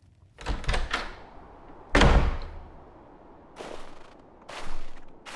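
A door opened and shut: a rattle of latch clicks, then a heavy slam about two seconds in. A few softer swishing sounds follow, evenly spaced about a second apart.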